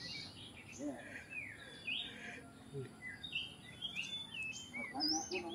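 Oriental magpie-robin (kacer) singing: a run of varied clear whistles and chirps, some sliding up, others sliding down, one after another.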